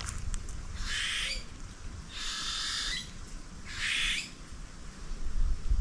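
A bird gives three harsh squawking calls, each under a second long: about a second in, in the middle, and about four seconds in.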